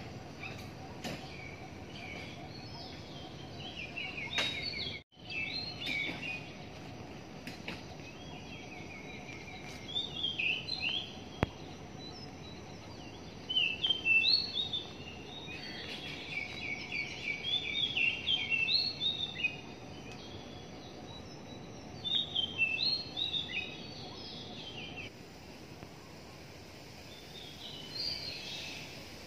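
Birds singing in the trees: phrases of quick, high chirping notes that come in several bursts, busiest in the middle, over a steady low background hum.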